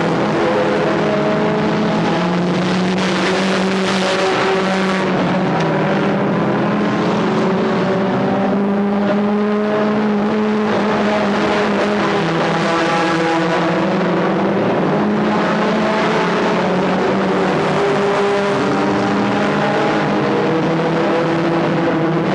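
Several stock car engines running hard together, their pitches rising and falling as the cars lap the track.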